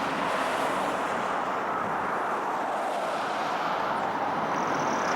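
Steady road traffic noise: a continuous hiss of passing vehicles.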